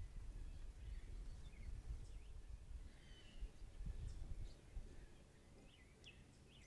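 Birds chirping outdoors: short scattered chirps and quick pitch sweeps, a few each second, over a low steady rumble.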